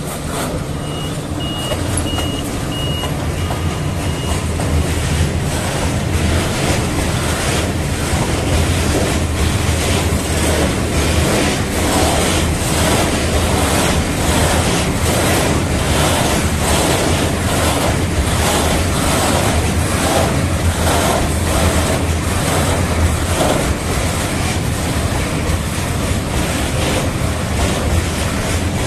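A train rolls through the station with a steady low hum, its wheels knocking over rail joints in a regular rhythm that sets in after about six seconds. Near the start, a short run of evenly spaced high electronic beeps sounds.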